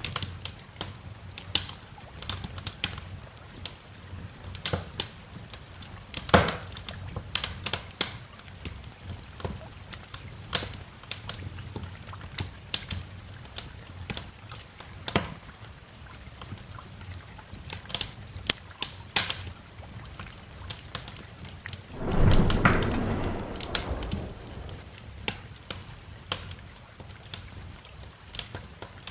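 Wood fire crackling in a fireplace, with irregular sharp pops and snaps over a soft rain hiss. About three-quarters of the way through, a roll of thunder comes in suddenly and rumbles away over a few seconds.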